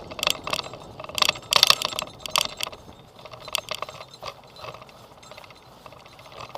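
Mechanical clicking and rattling on a moving recumbent bicycle, in irregular clusters that are densest in the first three seconds and thin out after.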